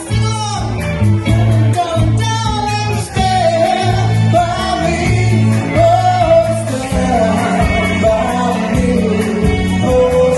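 Live soul band playing an instrumental break: a repeating bass line under a wavering lead melody.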